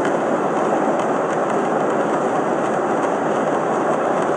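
Steady rushing cabin noise of an airliner in flight, even and unbroken.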